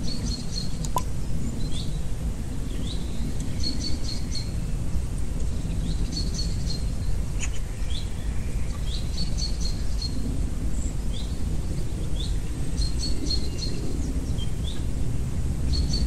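Wild birds singing and calling: short rising chirps and quick clusters of high notes, repeating every second or two. Underneath runs a steady low rumble.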